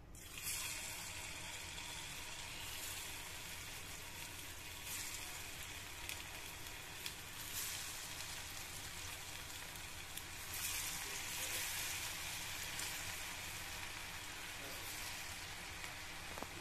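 Raw potato strips sizzling as they deep-fry in hot oil, the hiss starting sharply as the first strips go in and swelling several times as more strips are added.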